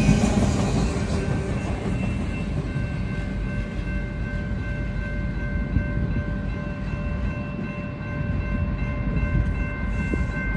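Freight train cars rolling past on the rails, a steady low rumble that eases a little after the first couple of seconds. From about two seconds in, a faint steady high-pitched tone sounds over it to the end.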